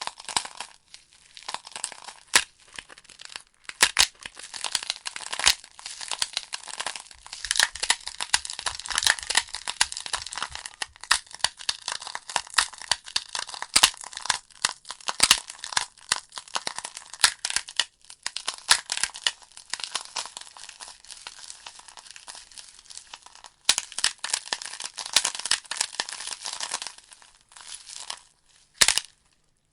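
Logs burning in a fireplace, crackling and popping: a dense run of sharp snaps over a steady hiss. Near the end the crackling thins out almost to silence, broken by one last loud pop.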